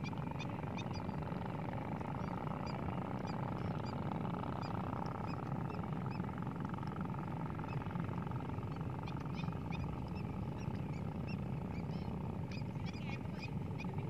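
Wetland birds calling with many short, high chirps over a steady low rumble.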